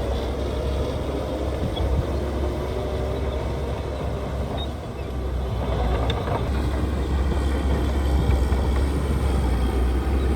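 Heavy diesel earthmoving machinery running with a steady low rumble. The sound dips briefly about halfway through, then picks up again.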